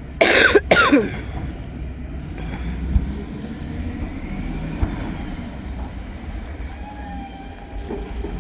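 Rubbish truck engine running steadily with a low rumble, with two short loud bursts right at the start and a couple of sharp knocks a few seconds later.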